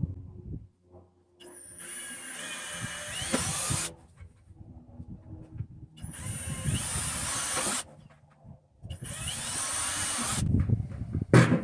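Power drill boring three holes through the plastic wall of a 5-gallon bucket, in three separate runs of a few seconds each with short pauses between them. A sharp thump comes near the end.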